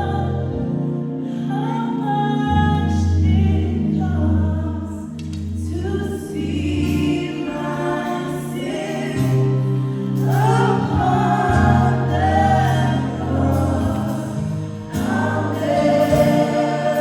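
Gospel worship singing: voices singing together over sustained bass notes and pulsing chords from the band.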